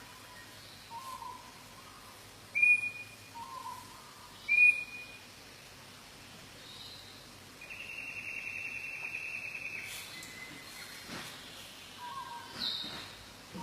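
Birds calling: soft, low whistled notes repeated every couple of seconds, two loud, sharp whistles about two seconds apart, then a long buzzy trill lasting a couple of seconds, and a higher whistle near the end.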